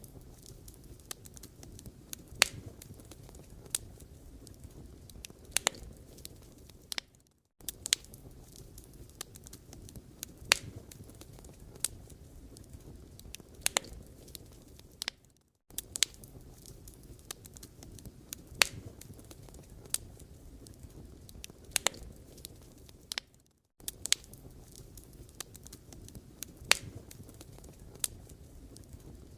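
Firewood burning, with a low steady rush and sharp irregular crackles and pops. It drops out briefly about every eight seconds.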